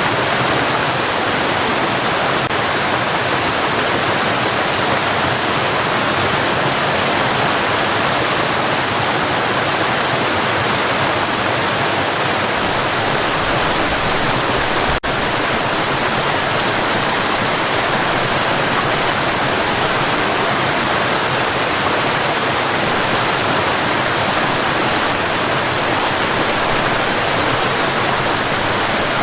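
Steady white noise: an even, unbroken hiss, with one brief click and short dip in level about halfway through.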